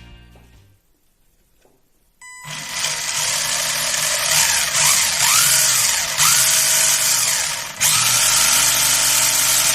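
SG-1603 1/16 RC drift car's freshly rebuilt motor and drivetrain whirring under throttle. It starts about two seconds in, and its pitch rises and falls several times as the throttle is worked. The owner finds it runs quieter after the rebuild.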